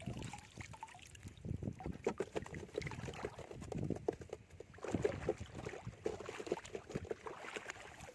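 Shallow seawater sloshing and splashing in irregular bursts as someone wades and digs after a burrowing shrimp, busiest about five seconds in.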